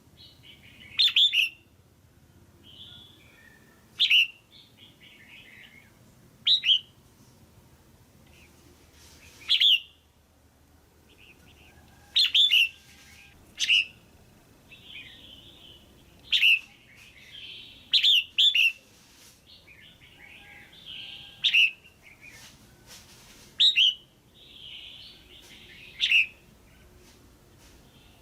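Female red-whiskered bulbul calling: about a dozen short, sharp, loud calls, one every two to three seconds, with softer chattering notes between them.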